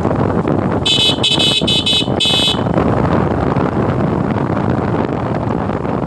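A vehicle horn sounds four short toots in quick succession about a second in, over steady wind and road noise on the microphone of a moving motorcycle.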